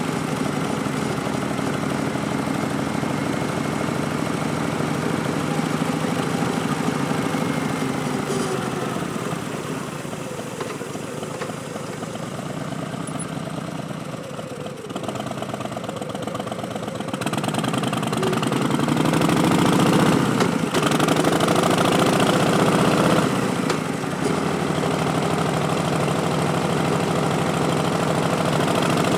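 Harley-Davidson Street Bob's Milwaukee-Eight V-twin running through Vance & Hines Twin Slash slip-on exhausts while riding. The engine eases off and quietens through the first half, then opens up again past the middle, loudest about two-thirds through, before settling into a steady cruise.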